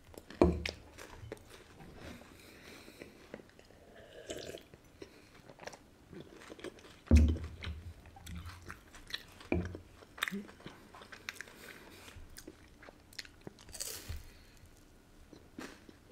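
Close-up chewing and crunching of a chocolate-coated wafer candy: small crisp crackles scattered through, with a few dull thumps, the loudest about seven seconds in.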